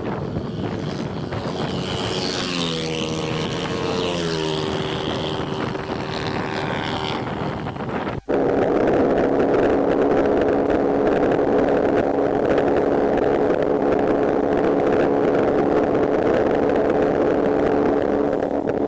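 200cc motorcycle engine running at full throttle during a drag race, its note rising in pitch a couple of seconds in, then holding. After an abrupt cut about eight seconds in, a louder, steady engine drone at constant speed, with wind noise.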